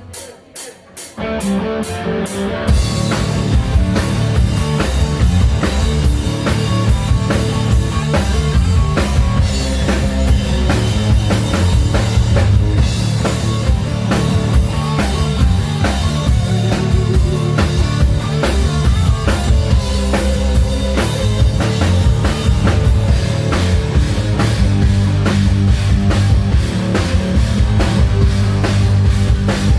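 Melodic hard rock band playing live: a few quick sharp clicks open, then about two seconds in the full band comes in loud, with drum kit and bass driving a steady beat.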